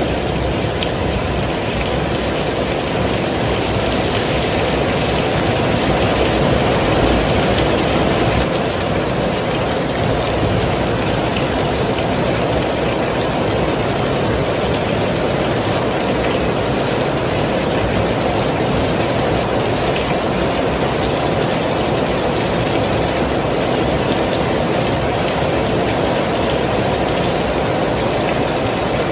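Heavy rain falling steadily, a dense even hiss weighted toward the low-middle range, swelling slightly a few seconds in.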